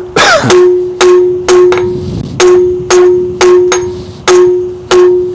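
Hand hammer striking hot steel bar stock on an anvil to draw it out to a point, about two blows a second with a brief pause about two seconds in. The anvil rings with a steady tone after each blow.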